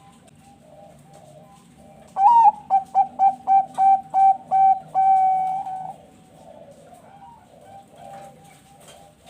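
Zebra dove (perkutut bangkok) singing one loud song about two seconds in: an opening coo, a quick run of about eight short staccato coos, and a long held final note. Softer cooing from other zebra doves goes on throughout.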